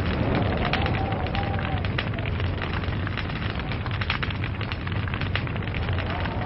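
Log fire crackling, with many rapid sharp pops over a steady low rumble of the flames. A faint wavering whistle rises and falls in the first couple of seconds.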